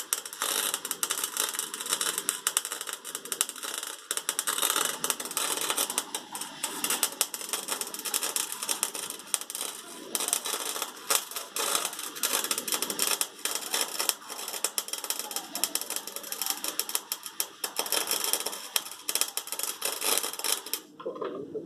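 Wire-feed (MIG) welder arc crackling and spitting in a rapid, uneven stream of clicks as a bead is laid; it stops suddenly near the end.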